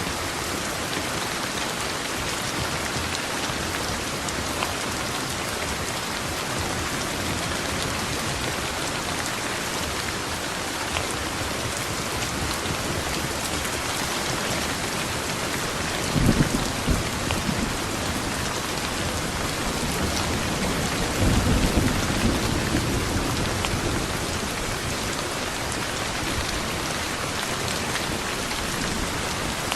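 Steady rain falling, with thunder rumbling twice: a sharp, short roll a little past the middle and a longer rumble a few seconds later.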